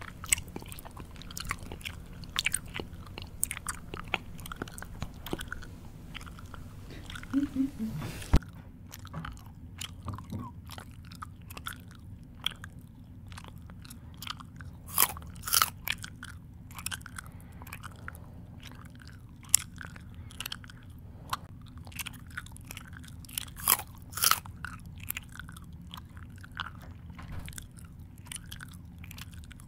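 A person chewing close to the microphone: irregular crunches and mouth clicks, some louder than others, with no steady rhythm.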